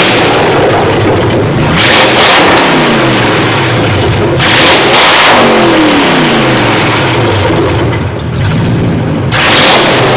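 BMW E39 M5's S62 V8 engine being revved while the car stands still, three times: each rev climbs quickly and then falls slowly back toward idle.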